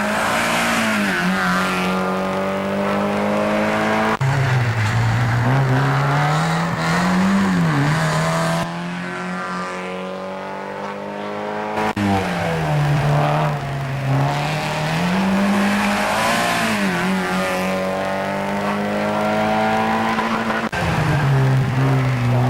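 Mazda MX-5 race car engine at racing speed, its pitch climbing and dropping again and again as it accelerates and shifts or lifts for corners. The sound jumps abruptly a few times, as at cuts between shots.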